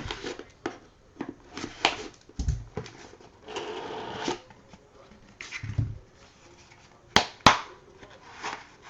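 A trading card box being opened and its cards handled: scattered rustles and taps, a longer scraping rustle in the middle, and two sharp clicks near the end.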